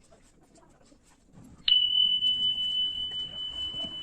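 A steady, high electronic beep that starts suddenly about a second and a half in and holds one pitch until it cuts off sharply.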